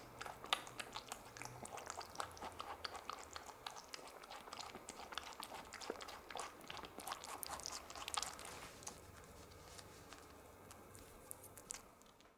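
A small rabbit chewing a grape: quick, juicy chomping clicks, busy at first and growing sparser and softer after about eight seconds, then fading out at the end.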